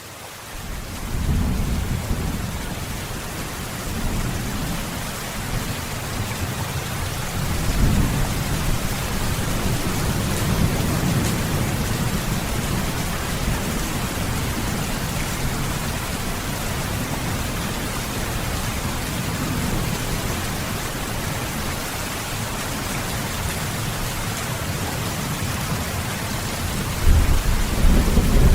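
Steady rain hiss with low, rolling thunder rumbling underneath, swelling and fading and growing louder near the end. The rain fades in during the first second or so.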